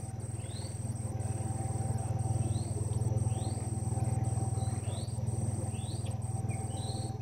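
A bird calling over and over, a short rising chirp about once a second, over a steady high insect drone and a low hum.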